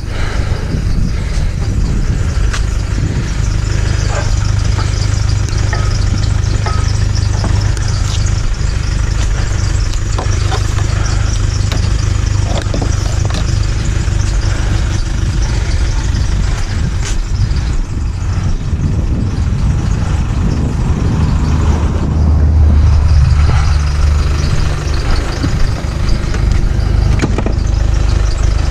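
Motor vehicle driving, heard from inside: a steady low engine and road rumble with small rattles and knocks. The engine note rises and grows louder about 22 seconds in, then settles.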